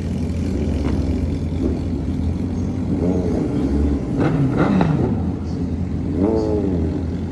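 Motorcycles revving as they pull away, their engine note rising and falling a few times over a steady low rumble.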